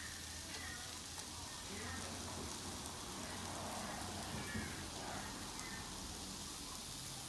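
Marinated beef and chicken strips sizzling on a barbecue grill, a steady hiss, with faint voices in the background.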